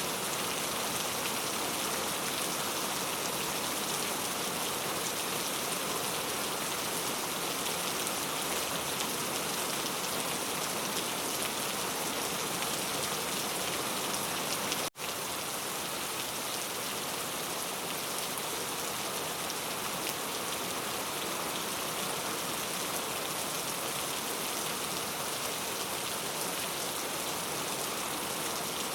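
Rain falling steadily, an even, dense hiss with no distinct drops standing out. It cuts out for an instant about halfway through, then carries on unchanged.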